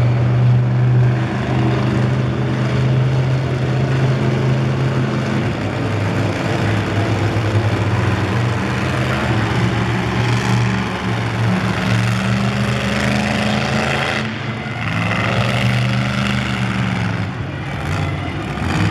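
Monster truck engines running at a steady, rumbling idle, with a short drop about fourteen seconds in before the engine note returns at a slightly different pitch.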